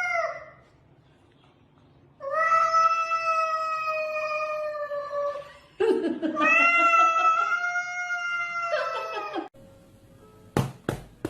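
Cat yowling: two long drawn-out calls of about three and a half seconds each, holding a nearly steady pitch, then a few sharp taps near the end.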